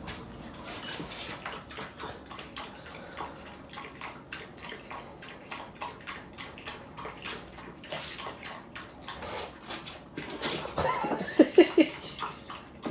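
Water splashing and running, with a few short high cries close together about eleven seconds in.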